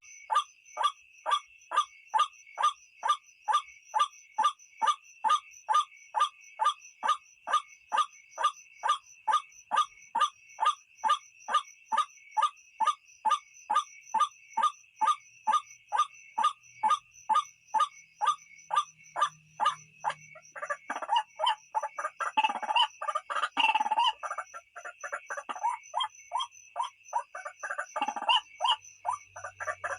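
White-breasted waterhen calling: a long run of short repeated notes, about two a second, that breaks about 21 seconds in into a louder, jumbled, croaking chorus. A steady insect trill runs underneath.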